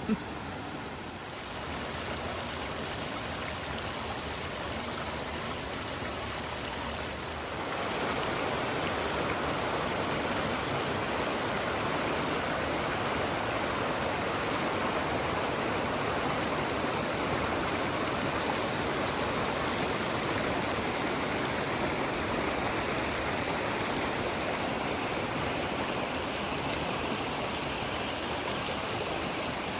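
Rushing creek water running steadily over the rocks and pools. It gets louder about eight seconds in.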